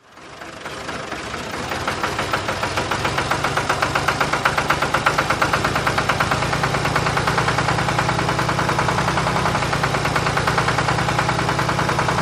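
Small motor of a homemade model engine and pump starting up and running, with a rapid, even knocking of about five beats a second. It builds up over the first couple of seconds, then runs steadily.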